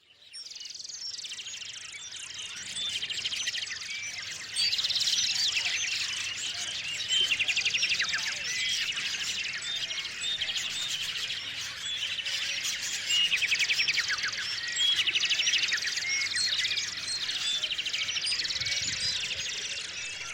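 Chorus of many small songbirds chirping and trilling at once, with calls overlapping continuously. It fades in over the first second.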